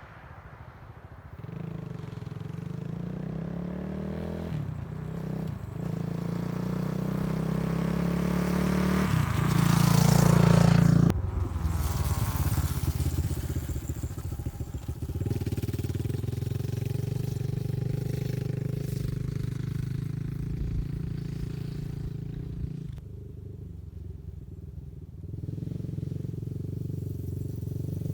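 Motorcycle engine running under way, its pitch climbing in steps as it accelerates through the gears. It is loudest about ten seconds in, then drops off sharply and settles to a steadier run, easing off briefly near the end.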